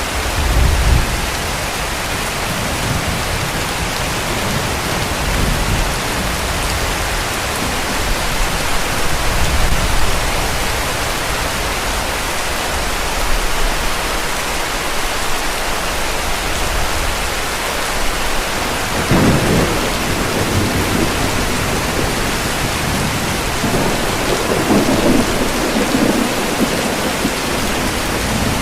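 Heavy rain falling steadily, with low rumbles of distant thunder rolling in several times: about a second in, around ten seconds, and twice in the second half.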